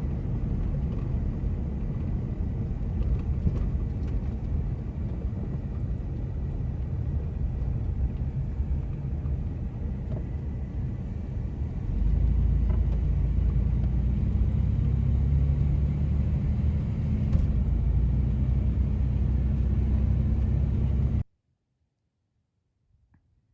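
Road and engine rumble of a vehicle being driven. It gets louder about halfway through and then cuts off suddenly near the end.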